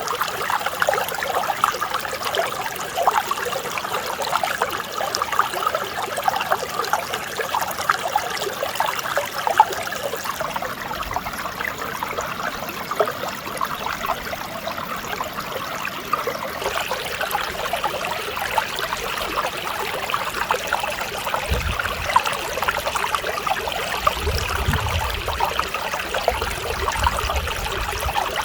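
Mountain stream flowing over rocks: a steady trickling and babbling of water.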